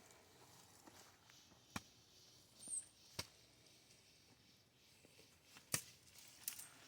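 Hoe chopping into the ground to dig planting holes: a few sharp, separate strikes a second or two apart, faint overall.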